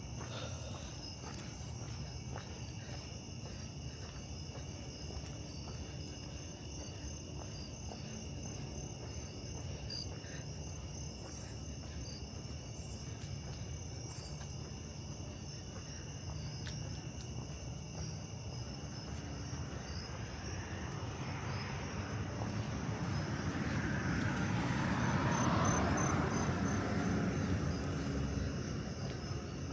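Crickets and other night insects chirping steadily in a high, even chorus over a low rumble. Near the end a broad rushing sound swells up and fades away again.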